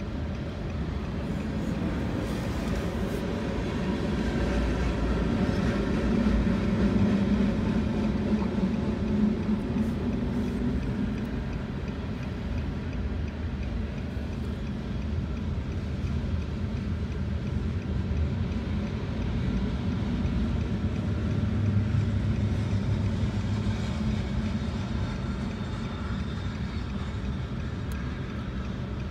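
Freight cars of a long mixed freight train rolling through a grade crossing: a steady rumble of wheels on rail that swells and eases as the cars pass, heard from inside a car.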